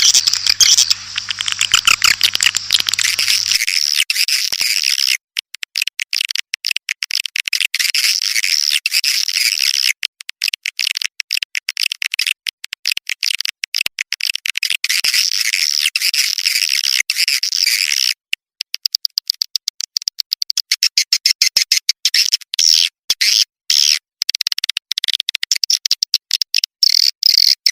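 Swiftlet lure call: a recording of swiftlets twittering in a dense, rapid stream of high chirps, chopped into quick bursts with short gaps. It is played to draw swiftlets into a nesting house.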